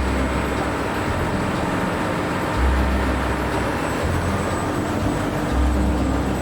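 Train running, a steady rumble with a low hum that swells and eases every second or two under a constant higher drone.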